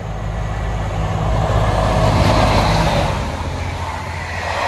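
Class 57 diesel locomotive passing at speed at the head of a passenger train. Its engine drone and the rush of wheels on rail build to a peak about two seconds in as the locomotive goes by, then ease as the coaches run past.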